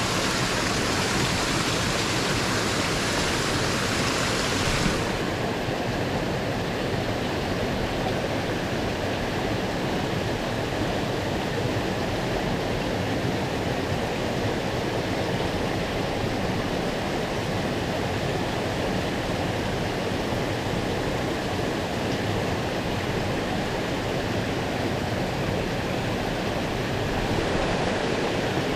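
Mountain stream water rushing steadily. About five seconds in, the highest hiss drops away and the rush sounds a little duller.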